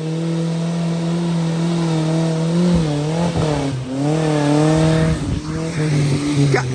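Off-road 4x4's engine revving, its pitch rising and falling with the throttle.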